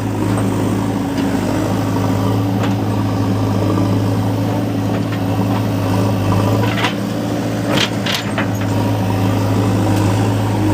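Heavy diesel engine running steadily with a low, even drone, with a few short knocks about seven and eight seconds in.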